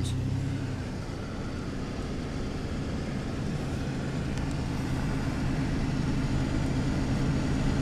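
Pickup truck's engine running steadily as it drives slowly, with road noise, heard from inside the cab.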